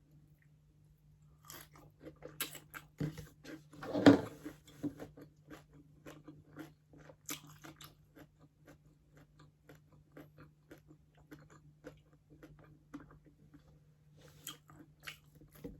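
Close chewing and crunching of crispy pata, deep-fried pork knuckle, with the crackling skin breaking in many small crunches. The loudest crunch comes about four seconds in, and the chewing thins out after the first half.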